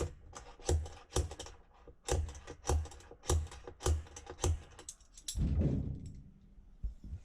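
Slide hammer hooked on a screw in a seized Maytag washer wash plate, its weight clacking metal on metal against the stop about twice a second to jar the stuck plate loose. About five seconds in the strikes give way to a longer, lower rumble.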